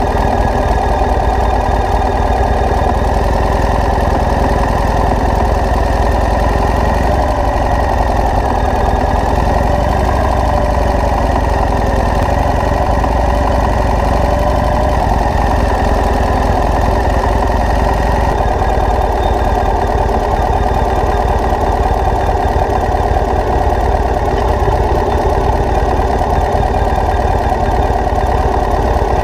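Motorcycle engine running steadily at an even speed, its pitch wavering only slightly.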